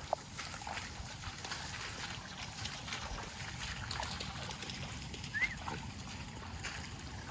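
Water sloshing and trickling with scattered faint clicks, and a short rising chirp about five seconds in.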